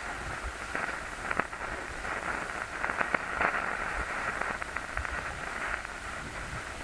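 Static hiss, like a radio or TV tuned to no station, with scattered crackles and clicks, a few louder ones about a second and a half in and around the middle.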